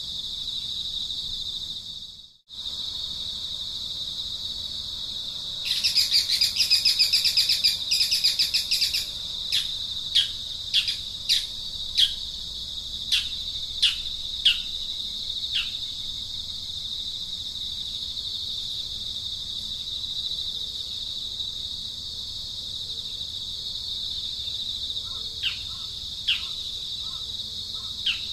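A bird calls over a steady high-pitched insect drone: a loud rapid trill, then a string of sharp, falling chirps about half a second to a second apart, with a few fainter chirps near the end.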